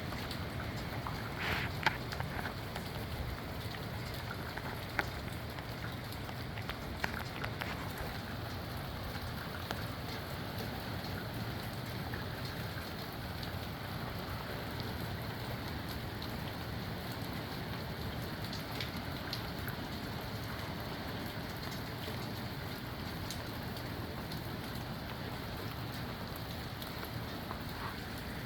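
Steady rain falling and pattering on surfaces, with a few sharper drop impacts in the first several seconds.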